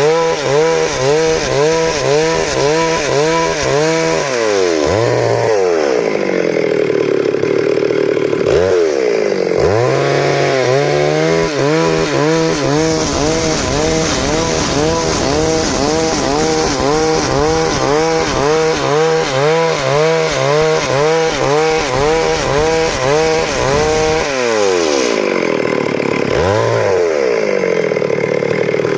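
Stihl MS 382 two-stroke chainsaw running at high revs while sawing a log lengthwise into boards, its pitch wavering under load. About five seconds in, and again near the end, the revs drop away and then climb back up.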